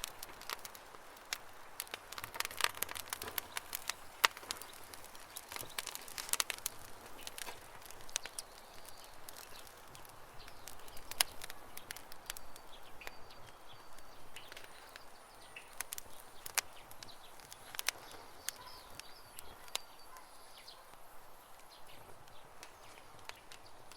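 Campfire crackling, with irregular sharp pops that come thickest in the first few seconds and thin out later. Birds chirp faintly in the background, mostly in the second half.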